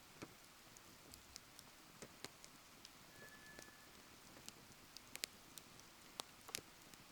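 Wood fire crackling faintly, with irregular sharp pops and snaps over a soft hiss. A brief thin whistle comes about three seconds in.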